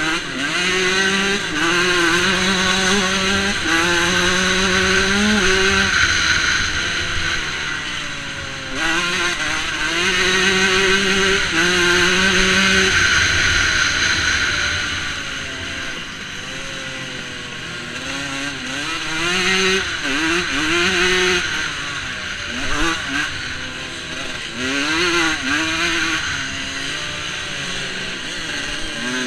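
125 cc two-stroke motocross bike engine heard on board at race pace, revving up through the gears with short breaks at each shift. It eases off and picks up again several times, quieter for a few seconds about a third of the way in and again past the middle.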